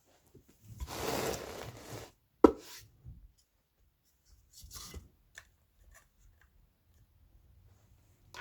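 Hand-work noises while a subwoofer is taken apart: a rough scrape lasting about a second, then a sharp knock, then a shorter scrape and a few light clicks.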